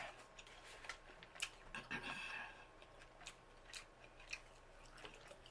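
Faint, irregular clicks and smacks of someone eating a seafood boil up close.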